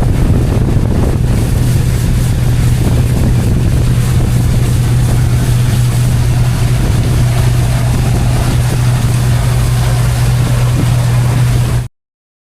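Fishing boat's engine running at a steady drone, with wind buffeting the microphone and water noise; it cuts off suddenly near the end.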